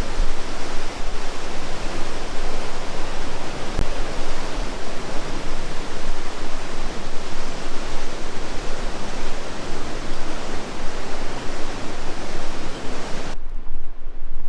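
Loud, steady rush of water from the Tallulah River's falls and rapids. Near the end the hissing top drops away suddenly, leaving a duller rush.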